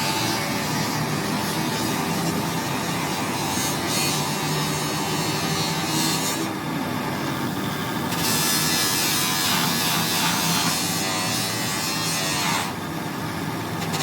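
A small electric motor running steadily with a buzzing hum, the hiss above it rising and falling in stretches.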